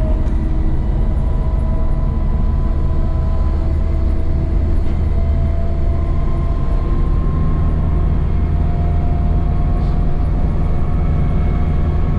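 A 1972 Land Rover Series III's rebuilt 2.5-litre petrol engine and road noise, heard from inside the cab while driving. It is a loud, steady drone, with a few thin tones whose pitch creeps slowly upward.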